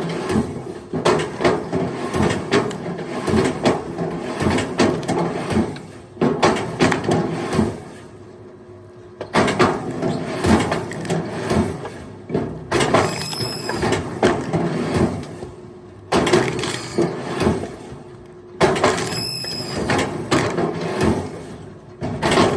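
Firewood logs knocking and clattering against each other as they are handled, in quick irregular knocks that pause briefly a few times, over a faint steady hum.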